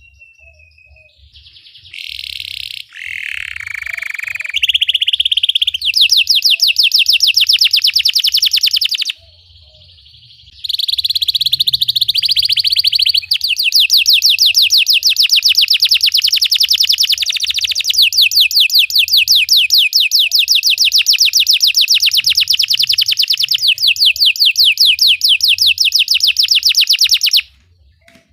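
Belgian canary singing. After a quiet start it gives varied phrases with a short pause, then a long fast roll of rapid, evenly repeated notes that cuts off abruptly shortly before the end.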